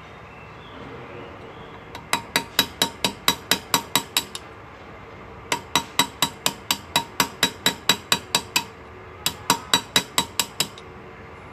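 Hand-engraving chisel struck with a small hammer, cutting into metal. The ringing taps come in three quick runs of about five or six a second, with short pauses between.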